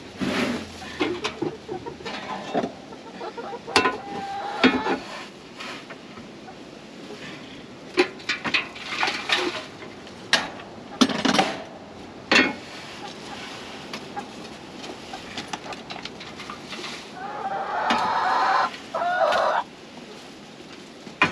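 Backyard chickens clucking, with a louder run of calls near the end, over scattered sharp knocks and rustles.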